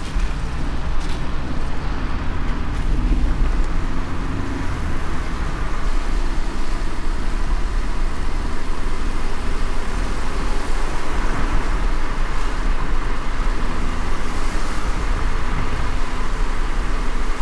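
Steady road noise of a car driving in light rain: a low rumble of engine and tyres with an even hiss across the top.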